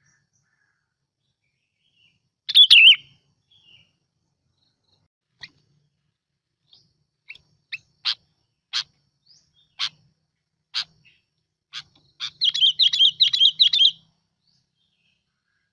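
Bulbul song from a lure-call recording: one loud warbled phrase about two and a half seconds in, then a run of short sharp chirps about one a second, ending in a fast warbling chatter of about two seconds.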